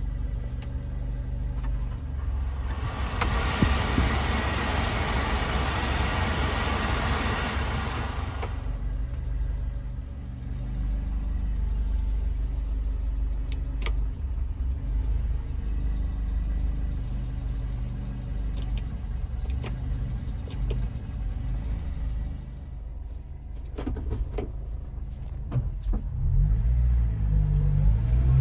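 1992 Subaru Sambar kei truck's small 660 cc four-cylinder engine running at a steady idle. A loud hiss covers it for about five seconds a few seconds in, and a few clicks come near the end, just as the engine begins to rev.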